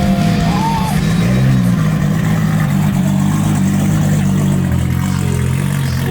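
Drift car engine held at steady revs, with a slight dip and rise in pitch about a second and a half in.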